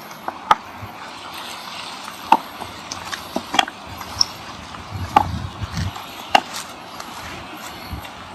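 Footsteps of a walker, sharp short steps every second or so, over a steady hiss of sea breeze and surf.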